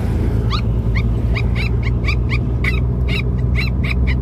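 A stressed dog whining and yelping over and over, short high-pitched cries about three to four a second, over the steady low rumble of a car on the move.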